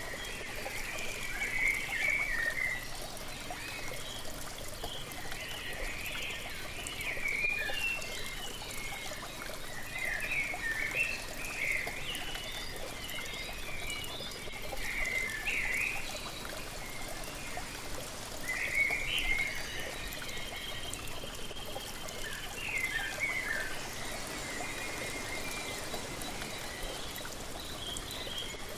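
Steady rush and splash of a waterfall, with birds singing over it in short, chirpy phrases that come and go and pause briefly a little past the middle.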